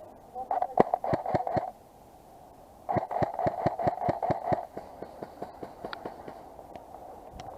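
Two bursts of rapid airsoft gunfire from an electric airsoft rifle, a run of sharp, evenly spaced shots over the whine of its motor, the second burst longer, followed by fainter shots.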